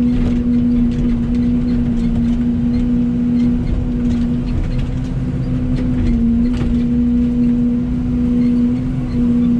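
Excavator's diesel engine running at a steady speed, a constant droning hum, with a few faint knocks from the machine at work.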